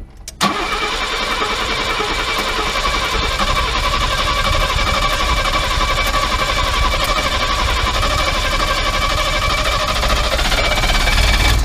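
Freshly rebuilt Mercedes W114 engine starting about half a second in, then running roughly at a steady speed. The owners judge the run worse than before and put it down to ignition timing that is badly retarded.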